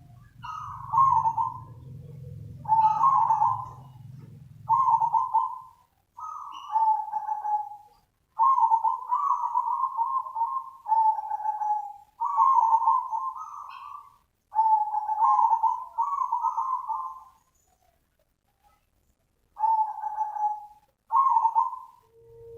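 Zebra dove calling: a series of short, trilling coo phrases, each about a second long, repeated with brief pauses and one longer break about three-quarters through.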